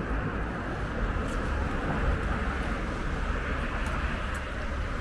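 Steady city street noise: a traffic hum mixed with wind rumbling on the microphone.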